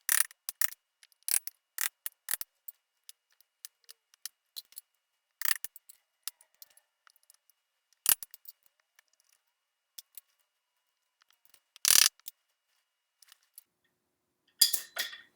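Irregular sharp clicks and snips of a hand tool working at the chair frame, with louder snaps about 5, 8 and 12 seconds in and a short cluster near the end.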